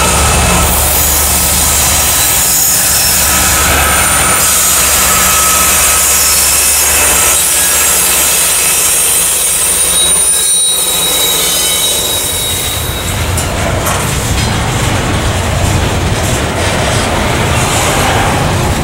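Union Pacific diesel locomotive passing close by, its engine a steady low drone, with thin high-pitched wheel squeal over it. After about twelve seconds the engine fades and the double-stack container well cars roll past with a steady rumble of wheels on rail.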